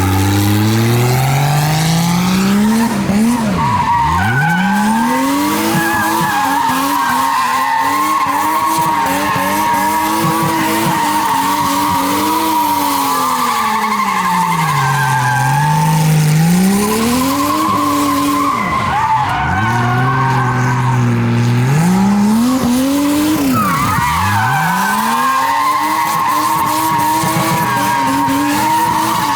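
Nissan R32 Skyline's turbocharged RB20E straight-six revving up and falling back again and again, with tyres squealing steadily through drifts.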